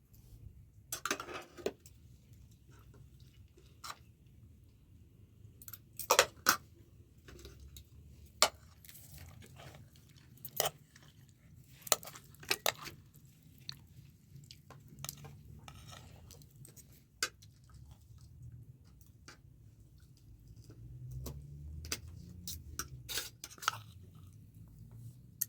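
Eating: chewing, with irregular clinks and knocks of dishes and utensils.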